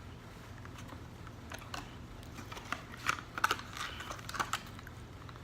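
Irregular light clicks and taps, a few to several per second, over a steady low hum.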